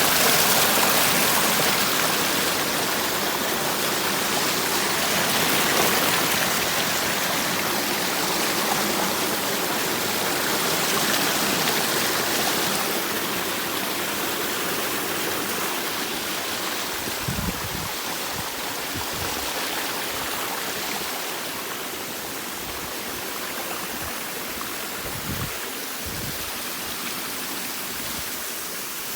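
Waterfall cascading, a steady rush of falling water, with a few brief low bumps on the microphone about two-thirds of the way in.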